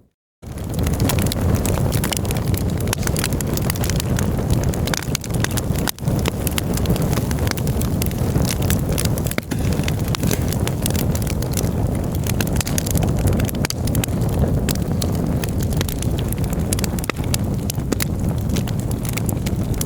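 Campfire crackling, with frequent sharp pops and snaps over a steady low rumble. The sound drops out to silence for a split second at the very start, then comes back.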